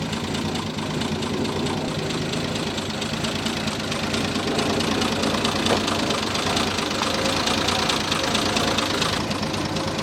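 Triumph straight-six engine with twin SU carburettors idling steadily.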